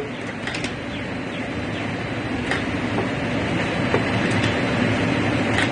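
2013 Chevy Malibu's 2.5-litre four-cylinder engine running steadily, with a few light clicks as a ground cable is hooked back up.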